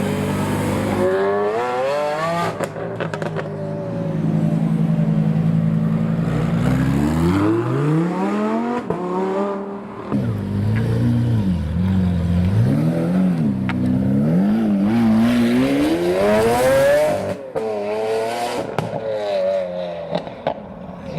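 A car engine held steady at first, then revved up and down several times, the pitch rising and falling, with a long climb to a peak near the end before it drops away.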